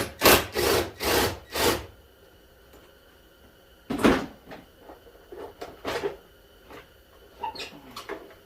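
Ratchet wrench on an extension loosening a 10 mm bolt: four or five rasping ratchet strokes in the first two seconds. A single sharp knock follows about four seconds in, then scattered light clicks of tools and parts.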